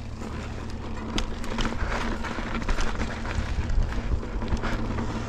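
Mountain bike rolling over slickrock: a steady rumble of tyres and wind, with scattered sharp clicks and rattles from the bike.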